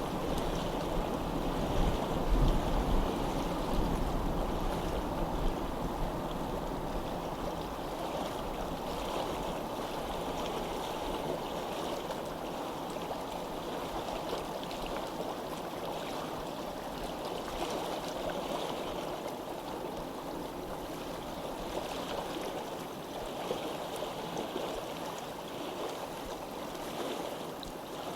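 Steady rush of flowing water, like a stream, with a little more low rumble in the first few seconds.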